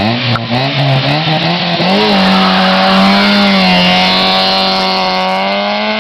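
Car engine at full throttle as it launches and accelerates hard away. The pitch climbs in quick short rises and drops over the first two seconds, then holds high and steady.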